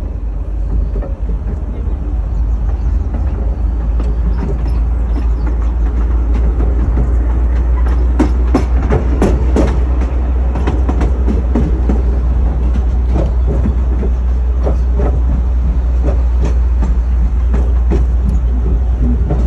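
Ride in a narrow-gauge miniature railway carriage: a heavy steady rumble, with irregular knocks and clatter of the wheels over the rail joints that thicken from about eight seconds in.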